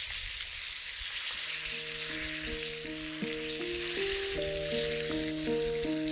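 Meat frying in a canteen cup over a campfire, a steady sizzle. A gentle melody of background music comes in about a second in and plays over it.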